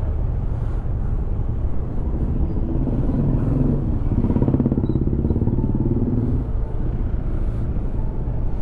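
Motorcycle engine running while riding in town traffic, with a steady low rumble. Around the middle the engine note rises and falls for a few seconds.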